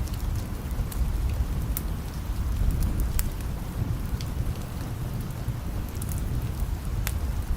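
Steady rain with a low, continuous rumble of distant thunder underneath, and a few sharp crackles scattered through it.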